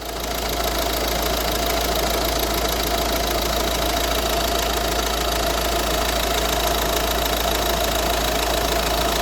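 Peugeot 508 engine idling steadily, with an even running noise and a constant mid-pitched tone.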